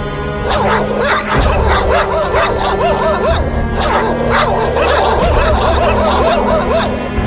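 Dogs fighting, barking and yelping in a dense run that starts about half a second in and stops just before the end, over background music.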